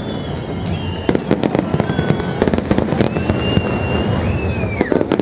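Fireworks display going off: rapid crackling bangs and pops throughout, with several high whistling tones, one curving down in pitch near the end.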